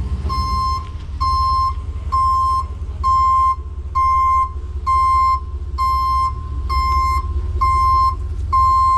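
Truck's reversing alarm beeping steadily at one pitch, about once a second, as the truck backs up, over the low rumble of its engine.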